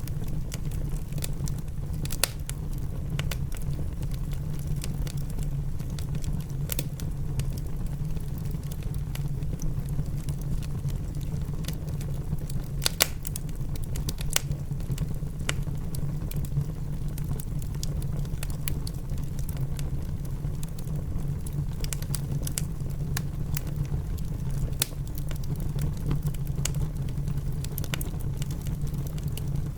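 Wood fire in a fireplace crackling, with scattered sharp pops at irregular moments, mixed with a steady low rumble of rain.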